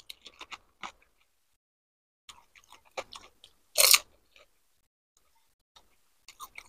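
Chewing a mouthful of pani puri: wet chewing with small crunches of the crisp puri shells, and one louder crisp crackle about four seconds in.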